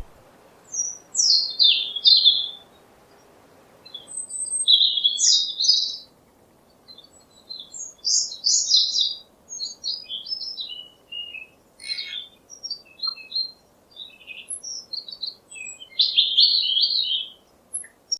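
Small songbirds chirping and twittering in quick phrases of high notes, with short pauses between phrases and a denser run of short chirps in the middle.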